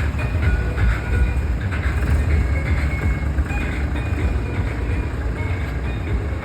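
Tractor engine running steadily, a low continuous rumble, with music playing over it.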